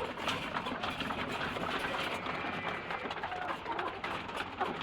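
A flock of caged laying hens feeding: a steady clatter of beaks pecking at feed, with a few soft clucks mixed in.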